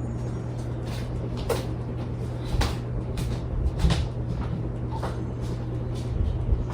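Minka Aire Concept II ceiling fan with a 153 by 15 millimeter motor running on high speed, giving a steady low motor hum. Several irregular sharp clicks or knocks sound over the hum.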